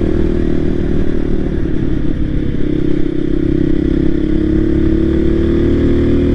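Voge 300 Rally's single-cylinder engine running steadily as the motorcycle is ridden along.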